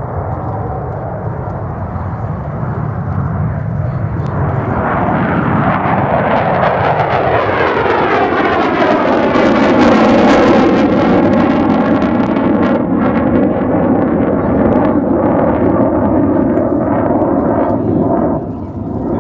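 Aircraft engine noise building as a departing military aircraft comes past close by, loudest about ten seconds in, with the pitch of the noise sweeping as it passes, then staying loud as it moves away.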